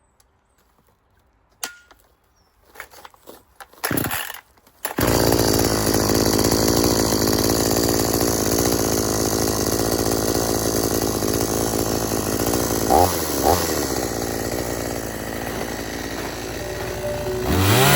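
A 46cc two-stroke petrol chainsaw catches about five seconds in after a few short sounds and then runs steadily, with two brief blips of the throttle later on and a rev-up near the end.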